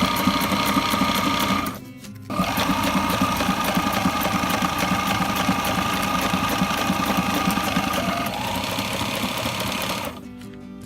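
Electric sewing machine stitching with a fast, even needle rhythm over its motor hum; it stops briefly about two seconds in, runs again, and stops near the end.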